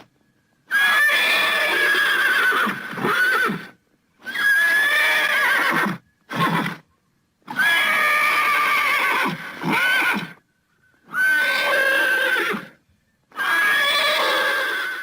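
Horse whinnying, five long calls in a row of about two to three seconds each, with a short extra call after the second, separated by brief clean silences.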